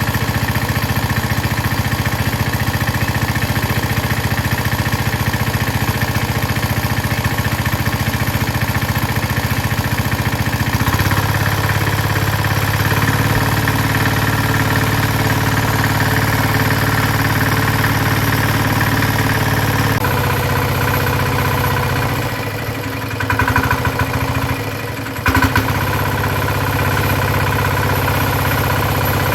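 A tiller's engine running steadily. About eleven seconds in, its note steps up a little. Near the end it dips and runs unevenly for a few seconds before settling back to a steady run.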